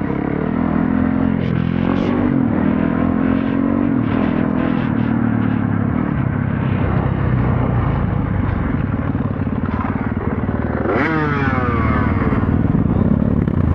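Motorcycle engine running steadily while riding, with the engine pitch climbing briefly about eleven seconds in.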